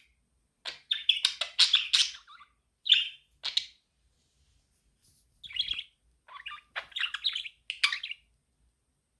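Budgerigar chirping in several quick bursts of sharp, high chirps separated by short pauses, falling silent about eight seconds in.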